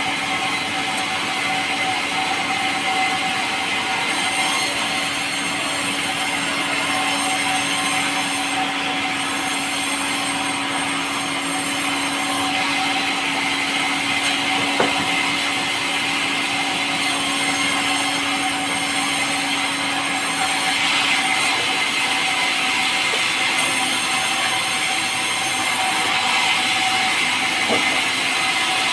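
Power saw running steadily through pulai, a light, soft timber, with a constant machine hum under an even rasp of cutting.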